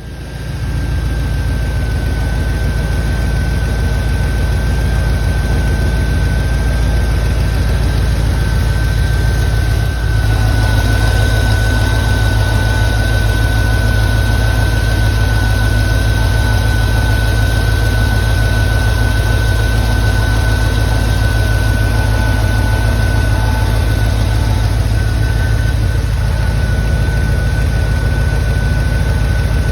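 A 1993 Chevrolet Corvette's V8 engine catches and settles into a steady idle, run to burp air out of the cooling system. A thin steady whine sits over the idle, and about ten seconds in the low rumble grows a little deeper.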